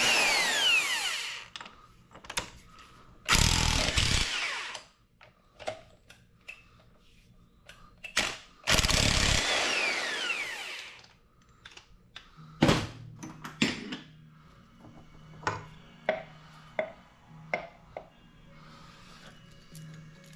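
A handheld power tool runs in three bursts of one to two seconds, its pitch falling as it winds down after each one, then several sharp metallic clicks and clinks from tools being handled.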